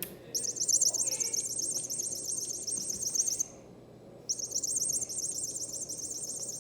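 High-pitched, rapidly warbling electronic chirp from a cat toy, in two runs of about three seconds each with a brief break between them.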